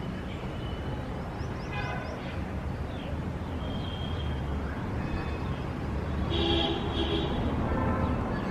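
City street ambience: a steady low traffic rumble, with a few brief higher pitched sounds on top, the loudest about six and a half seconds in.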